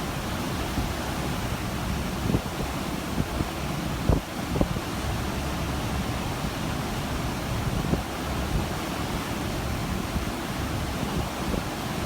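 Steady rush of ocean water, with wind buffeting the microphone in low gusts and a few short thumps, the strongest about four seconds in.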